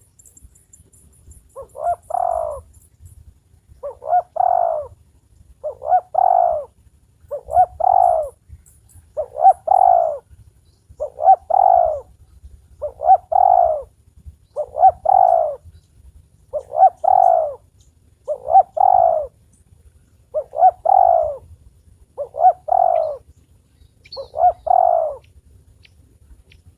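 Spotted dove (tekukur) cooing: thirteen short, repeated coo phrases, one about every two seconds. It is a caller dove being trained as a decoy.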